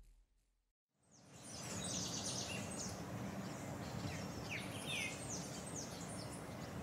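Birds chirping, many short quick calls over a steady low outdoor background noise, starting after about a second of silence.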